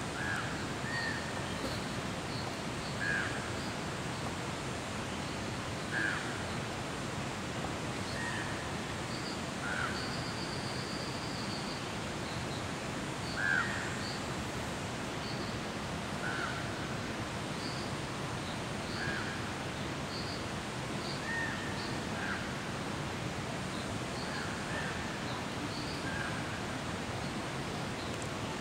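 Short bird calls repeated every second or two, one louder about halfway through, over a steady, even rushing background noise.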